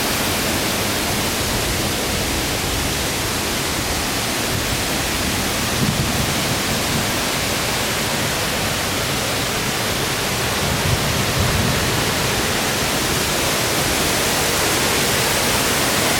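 Steady rush of a waterfall, an even wash of falling water, with a couple of faint low knocks about six and eleven seconds in.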